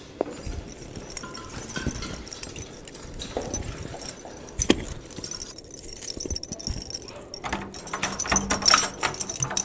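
Jingling and clattering of small hard objects: scattered clicks and knocks, growing into a dense jingle about three quarters of the way through.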